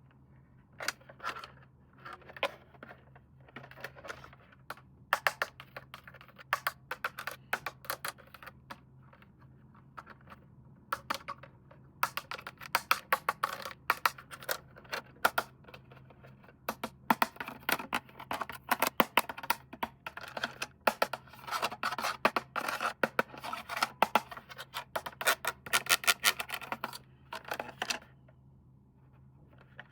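Plastic packaging being handled and opened: fast, irregular crackling and clicking in uneven bursts, busiest in the second half.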